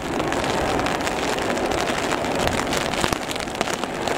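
Heavy rain pattering on an umbrella held over the microphone, a dense stream of fine drop ticks over a steady rushing noise, with wind hitting the umbrella.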